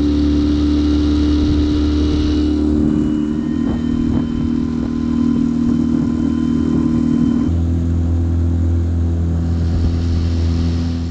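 A small 9.9 hp outboard motor running steadily at cruising speed, pushing a jon boat, with rushing wind and water noise over it. The engine note shifts abruptly twice, about three seconds in and again past the middle.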